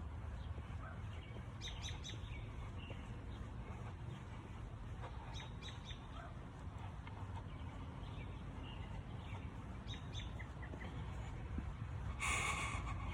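Birds chirping intermittently over a steady low background rumble, with one louder, brief sound about twelve seconds in.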